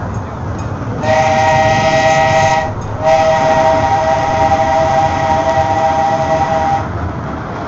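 A steam train's whistle sounding two blasts, a short one and then a longer one, as a steady chord of several tones. The train's running rumble continues underneath.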